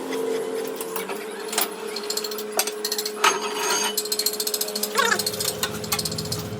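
Workshop metalwork on a truck rear axle: sharp metal knocks and clinks, with stretches of rapid clicking, over a steady machine hum.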